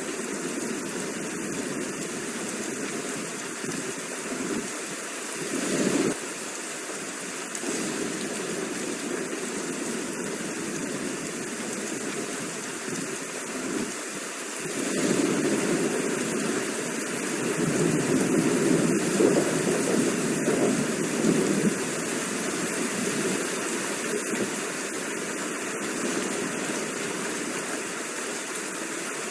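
Steady rain, an even hiss. A deeper rushing swells briefly about six seconds in and grows louder again from about fifteen to twenty-one seconds in.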